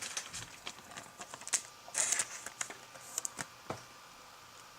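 Trading cards being handled: scattered light clicks and taps, with a short rustle about two seconds in, fading out near the end.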